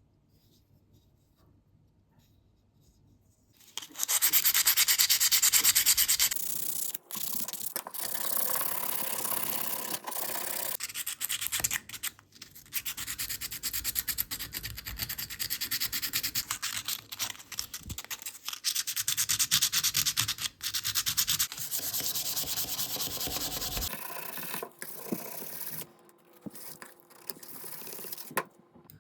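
Sanding during a knife restoration: abrasive rubbing starts suddenly about four seconds in and runs loudly in long spells, then turns quieter and broken in the last few seconds.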